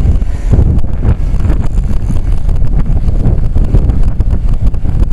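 Gusty wind buffeting a hat-mounted camera's microphone: a loud, uneven rumble that rises and falls with the gusts.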